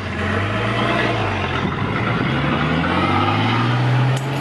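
1978 Toyota Corona wagon's engine accelerating away, its pitch climbing, dropping briefly about a second and a half in as it changes gear, then climbing again.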